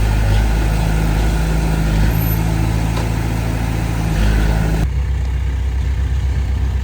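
Diesel engine of heavy earthmoving machinery running, its engine note shifting a few times; about five seconds in the sound changes abruptly to a duller, lower engine sound.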